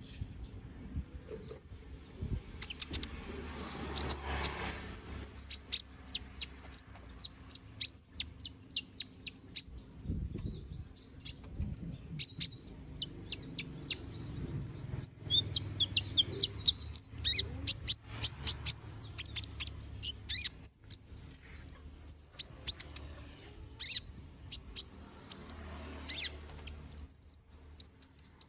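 Kolibri ninja (a small sunbird) singing in full voice: a busy, unbroken stream of short, high, thin chirps and quick trills. This is the 'gacor' song in which the bird runs through its stock of varied phrases.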